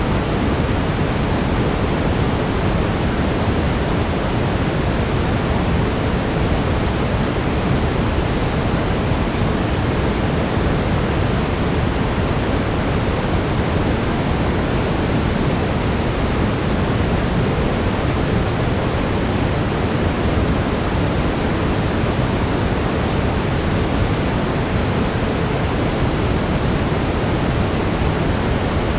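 Steady brown noise, an even deep rushing hiss with most of its weight in the low end, unchanging throughout.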